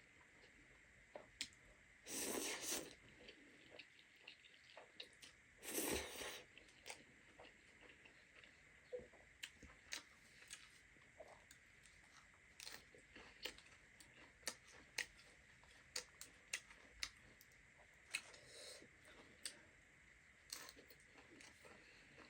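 Close-up mukbang eating sounds: chewing and biting with many small mouth clicks, and two louder crunchy bursts about two and six seconds in.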